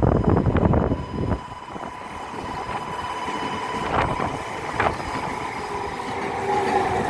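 Wind gusting on the microphone for about a second. Then an electric train approaches, with a couple of sharp clicks and its motor whine gliding gently down near the end.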